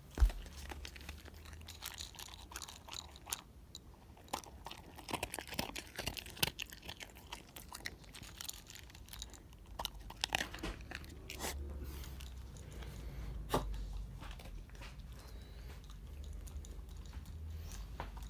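A Shiba Inu eating its food, with irregular crunching and chewing sounds.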